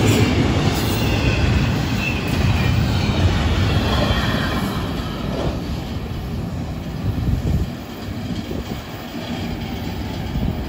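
Double-stack intermodal well cars rolling past on the rails, with a dense low rumble and a few faint wheel squeals. The sound fades after about five seconds as the end of the train draws away.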